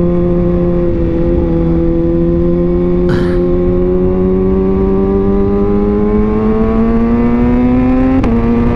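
Kawasaki ZX-6R's inline-four engine pulling in one gear, its pitch climbing slowly and steadily, then dropping suddenly near the end as it shifts up a gear.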